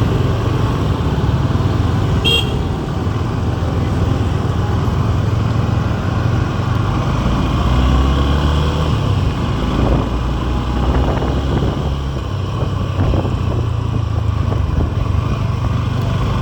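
Suzuki V-Strom SX 250's single-cylinder engine running steadily while riding, its note shifting in pitch about halfway through. A short high beep sounds about two seconds in.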